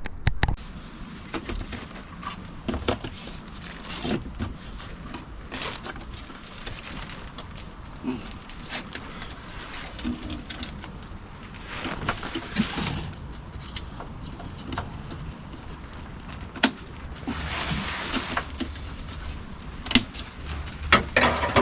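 Workshop handling noises: scattered light knocks and clicks, with a few short stretches of rustling or scraping.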